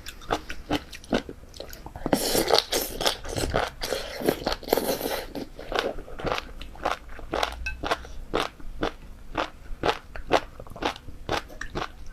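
Close-up crunchy chewing of spicy jellyfish, a quick run of crisp crunches about two to three a second. A louder, denser stretch of crunching and mouth noise sets in about two seconds in and lasts around three seconds.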